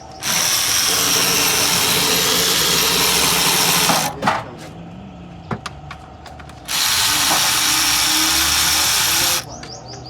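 A workshop tool run in two long bursts, a steady loud rushing hiss of about four seconds and then about three seconds, each starting and stopping abruptly.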